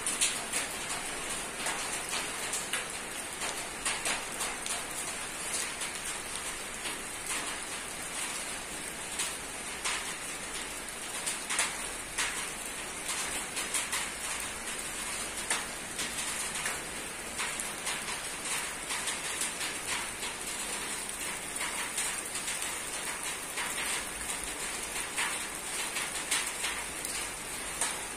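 Rain falling on a roof: a steady patter of drops with many irregular sharper drip impacts.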